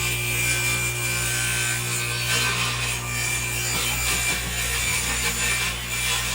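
Continuous noise of a tool working wood, over a steady low hum.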